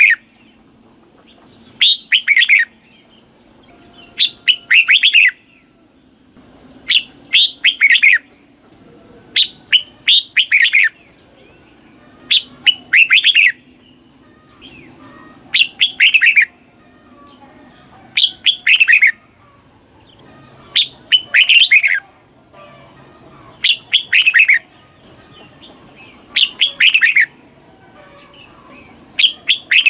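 Red-whiskered bulbul singing: short, bright phrases of quick descending notes, each under a second, repeated about every two and a half to three seconds.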